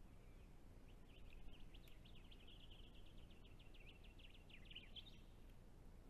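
A small bird singing faintly: a rapid chattering trill of quick, short high notes that lasts about four seconds, starting about a second in.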